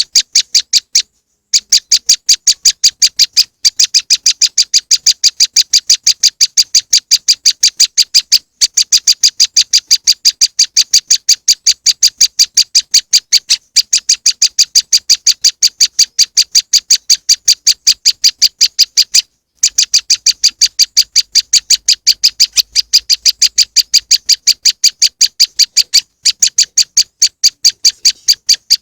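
Prenjak lumut bird-lure recording: a loud, rapid series of high chirps, about six a second, in long runs broken by a few brief pauses.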